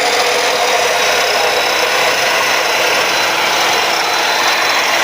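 Bull 14-inch cut-off saw fitted with an aluminium-cutting blade, its motor running steadily at full speed: a harsh rushing noise with a thin high whine over it.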